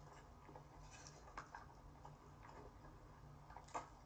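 Faint, irregular wet mouth clicks and smacks of chewing a mouthful of noodles, with one louder click near the end.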